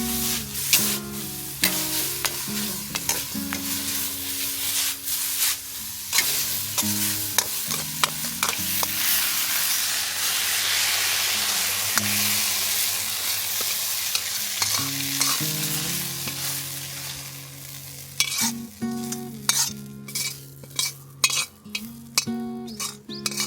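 Food sizzling and frying in a hot wok over a campfire, with a metal spatula stirring and scraping it. The sizzle is loudest in the middle. Sharp clinks of metal on the wok come thicker near the end, over soft background music.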